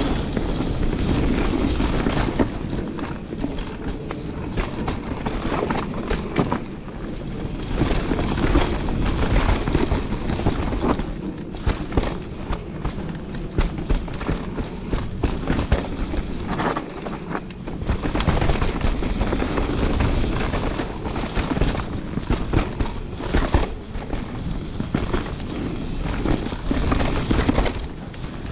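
Canyon Spectral 29 full-suspension mountain bike descending a rough dirt trail: tyres rolling over dirt, roots and rocks, and the bike rattling and clattering with constant sharp knocks, over a low rumble.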